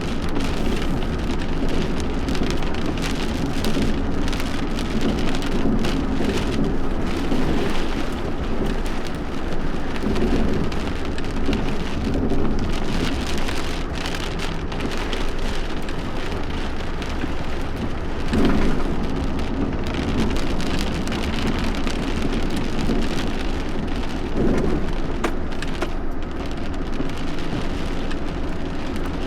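Heavy rain falling steadily, with many sharp drop hits and a few louder swells about ten, eighteen and twenty-four seconds in.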